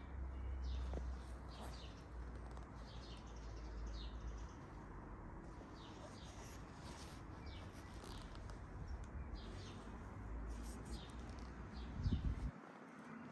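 Small birds chirping again and again in short, falling notes over a low rumble, with a brief thump near the end.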